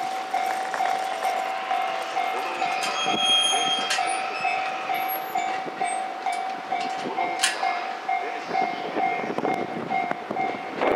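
E531 series electric train running past, with a repeating electronic bell tone pulsing about twice a second, typical of a Japanese level-crossing alarm. A short high tone sounds about three seconds in.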